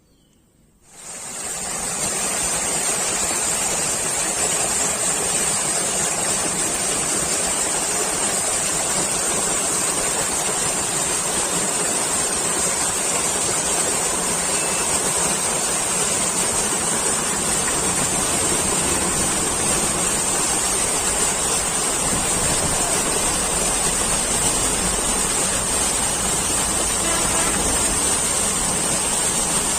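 Waterfall: a steady rush of falling water that sets in about a second in, with a steady high-pitched hiss or whine above it.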